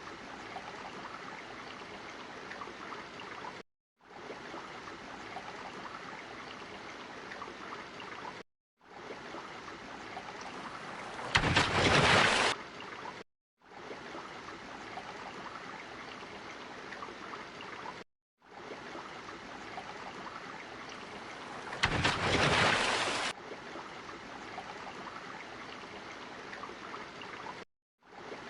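Water sound effect: a steady rushing, flowing-water noise, looped in stretches of about five seconds with short cut-outs between them, and two louder surges or splashes, one about eleven seconds in and one about twenty-two seconds in.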